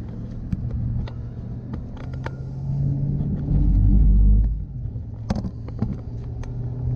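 A truck driving on the road, its engine and road noise heard from inside the cabin as a steady low hum. A deep rumble swells for about a second midway, and there are a few light clicks.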